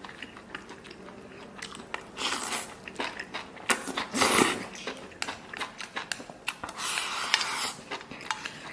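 A person biting and chewing mouthfuls of chili-fried pork belly slices with rice, close to the microphone. The chewing comes in uneven bursts with sharp clicks, loudest about four seconds in.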